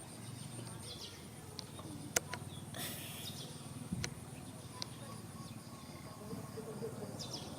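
Outdoor ambience: a steady high insect drone with a few short bird chirps, several sharp clicks and a brief hiss.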